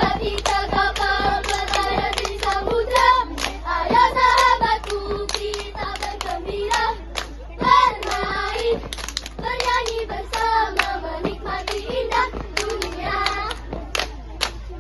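A troop of young children singing a scout cheer song in unison, punctuated throughout by sharp hand claps.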